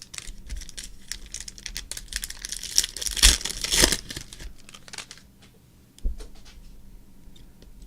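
Crinkling and tearing of a foil trading-card pack wrapper, busiest about three to four seconds in, with a soft thump about six seconds in.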